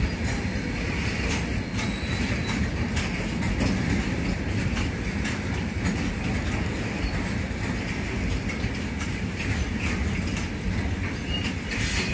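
Goods train's covered wagons rolling past on the far track: a steady low rumble of wheels on rails, with irregular clicks of the wheels crossing rail joints.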